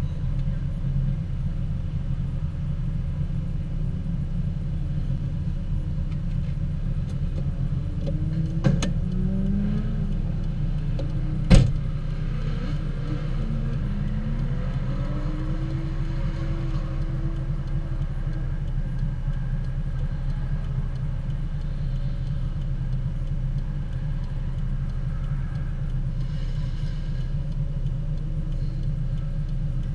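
Car engine idling steadily, heard from inside the cabin. Two sharp clicks cut through it, the second louder, about nine and twelve seconds in.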